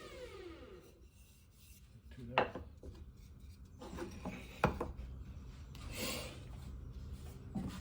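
Electric router motor winding down to a stop in about a second, its pitch falling. Then a few sharp wooden knocks and light rubbing as wood is handled.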